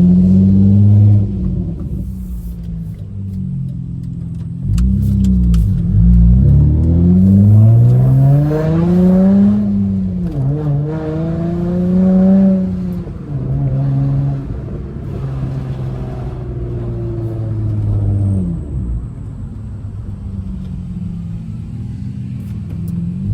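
Straight-piped V6 of a manual Honda Accord pulling away gently: the exhaust note rises with the revs, drops at each gear change, then settles into a steady cruise. The engine is still warming up after a cold start.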